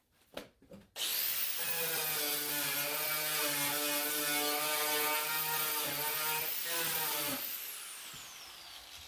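Electric angle grinder fitted with a paint and rust stripping disc, switched on with a couple of clicks, running steadily with a high whine for about six seconds, then switched off, its whine falling as it spins down.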